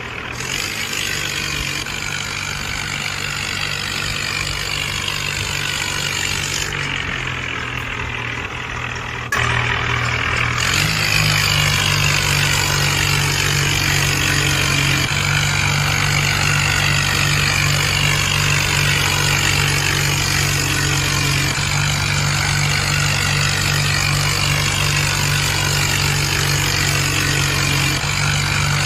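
Tractor engine running at a steady speed, getting noticeably louder about nine seconds in and then holding steady.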